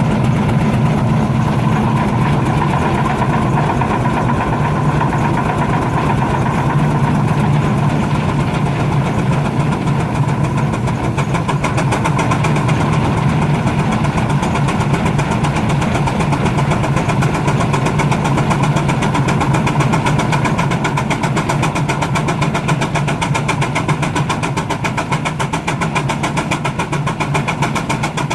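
Baker steam traction engine running steadily under load on a prony brake, with a fast, even beat.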